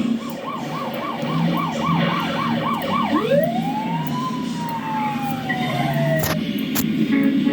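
Police car siren sounding a fast yelp, about four rises and falls a second, then switching to a long wail that climbs and slowly falls. Two sharp clicks come near the end.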